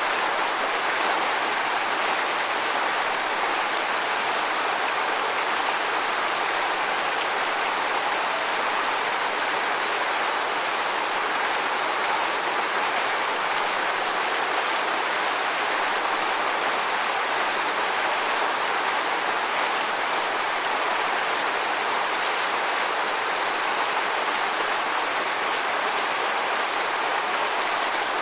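A waterfall's steady rushing, an even roar of falling water.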